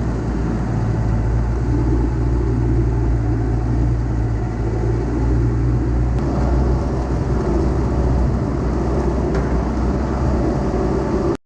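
Diesel engine of heavy earthmoving equipment running steadily under work, ending abruptly near the end.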